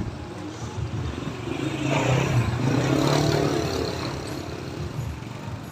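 Street traffic: a motor vehicle engine running close by as a steady low hum, with a swell of passing street noise about two to four seconds in.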